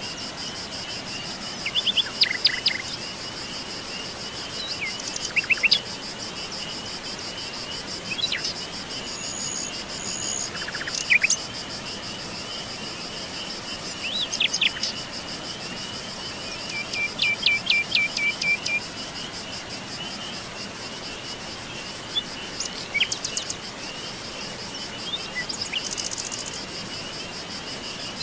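Forest birds singing and calling in short bursts of chirps, trills and whistles, over a continuous high, pulsing insect trill.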